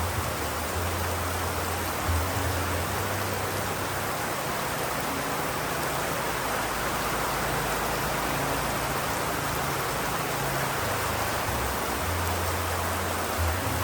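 Steady rain falling, an even hiss of drops, with a low rumble underneath that swells and fades several times.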